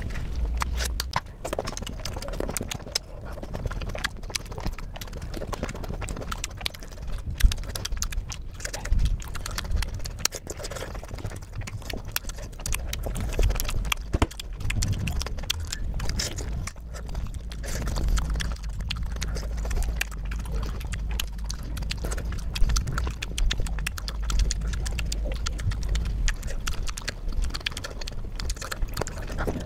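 Close-miked eating of juicy fresh fruit: a person bites and chews, making a continuous run of wet mouth clicks and smacks.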